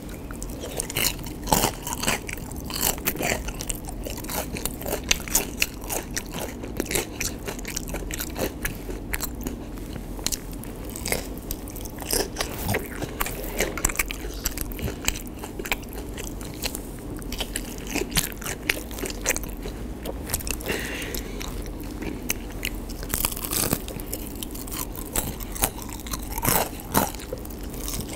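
Close-miked biting and chewing of crispy battered fried cempedak (cempedak goreng): a long run of irregular crunches from the fried batter, several a second, with louder crunches on each fresh bite.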